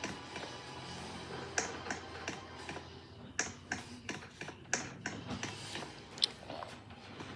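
Irregular sharp clicks and taps, a few each second, over a faint low hum.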